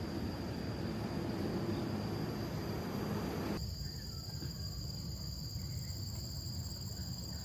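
Steady high-pitched drone of tropical forest insects over a low rumbling background. The background changes abruptly about three and a half seconds in, while the insect tone carries on.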